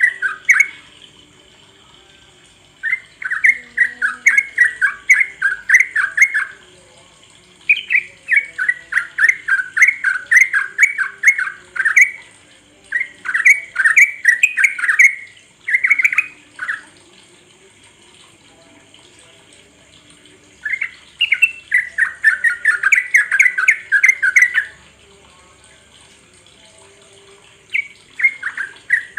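Trucuk (yellow-vented bulbul) song: bouts of rapid, loud chattering notes a few seconds long, repeated with short pauses between them. This is the full, continuous 'ngropel' song used as a lure to get other trucuk birds singing.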